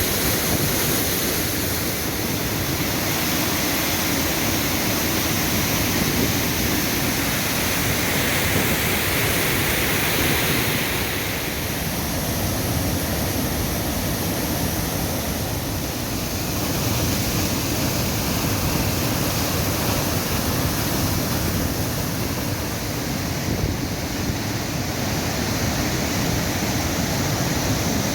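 Waterfall on a rain-swollen river: a steady rush of falling water.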